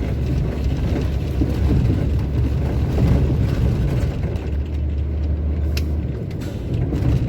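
Heavy truck driving at road speed, heard from inside the cab: a steady low engine and road rumble.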